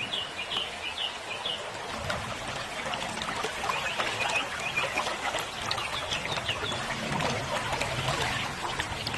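Birds chirping in short repeated calls, in a run near the start and again midway, over the steady rush and trickle of river water.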